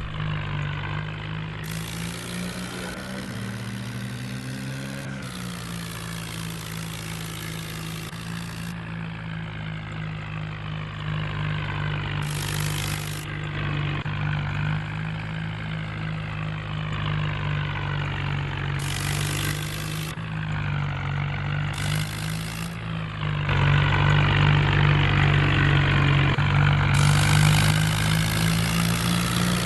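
Tractor's diesel engine running steadily, getting clearly louder about 23 seconds in.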